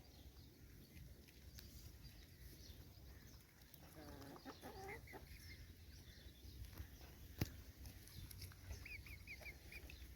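Faint chicken clucking, a short pitched call about four seconds in, then a single sharp click, and a quick run of five high chirps near the end.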